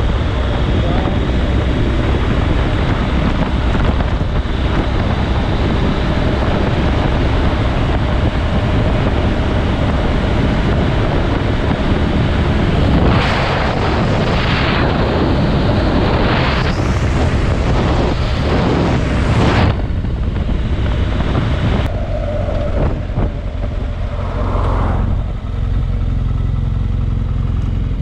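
Motorcycle on the move: steady wind rush buffeting the microphone over the engine's low running noise. A louder, brighter rush of wind comes about halfway through and lasts several seconds.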